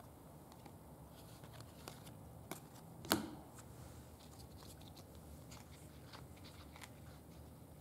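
Faint handling of trading cards: light rustling with scattered small clicks and one sharper click about three seconds in.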